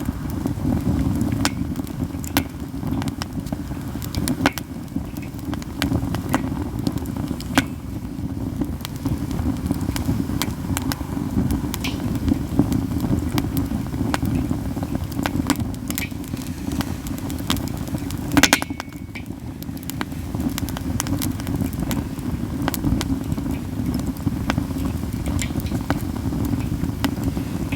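Katsura wood burning in an open campfire, crackling steadily with scattered sharp pops and one louder snap about eighteen seconds in, over a steady low rumble.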